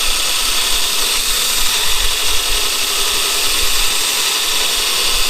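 A power tool running steadily: an even, loud hiss with a faint motor hum underneath.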